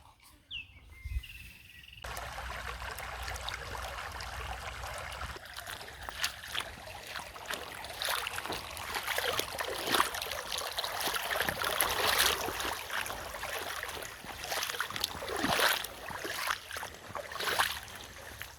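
Rain falling steadily with water running across a flooded road, full of small drips and splashes, starting suddenly about two seconds in.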